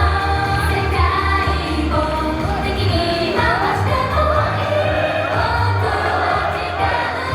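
Female idol group singing together live over an upbeat pop backing track with a steady pulsing bass beat.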